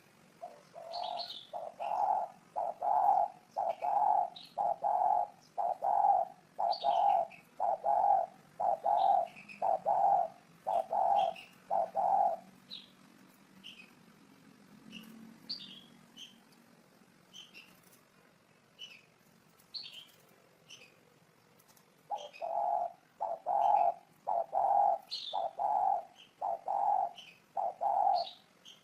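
Spotted dove cooing in a run of short, evenly spaced coos, a little over one a second; it breaks off midway for about ten seconds, then starts again. Small birds chirp high above it throughout.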